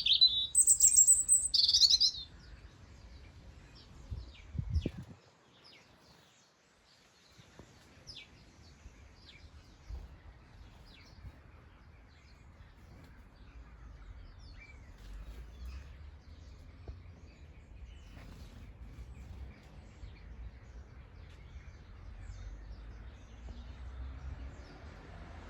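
Garden birds calling: loud, quick chirping calls in the first two seconds, then faint scattered chirps over a low background rumble. A brief low thud about five seconds in.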